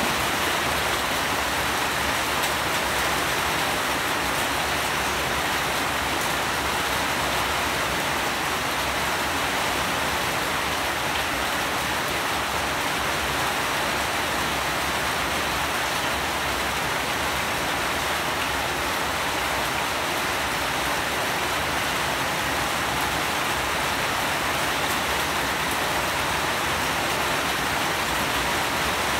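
Steady rainfall: an even, unbroken hiss with no separate drops, thunder or breaks standing out.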